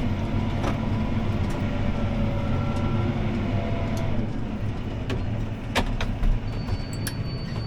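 CLAAS ARION 650 tractor's six-cylinder diesel engine running steadily under load while pulling a disc harrow, heard from inside the cab as a low rumble. A few sharp clicks sound over it, and a thin high whine starts near the end.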